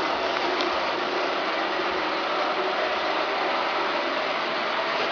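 Roomba robot vacuum running: a steady whir of its motor and brushes.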